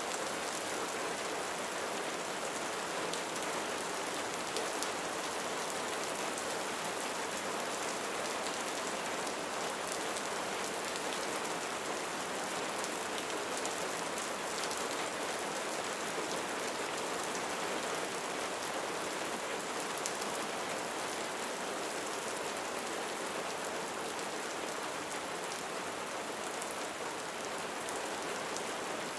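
Steady rain falling on a roof: an even hiss with scattered drop ticks.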